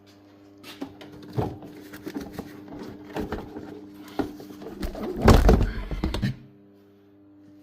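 A series of knocks and thunks, loudest in a cluster a little past halfway, over a steady low hum.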